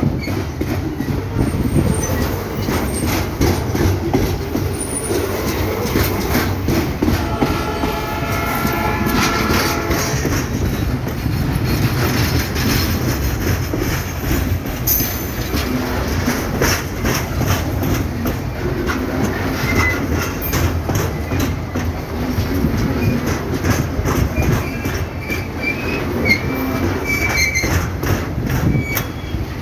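Freight train rolling past, its wheels clacking steadily over rail joints over a continuous low rumble. A stretch of high-pitched wheel squeal comes about seven to ten seconds in, and shorter squeals come near the end.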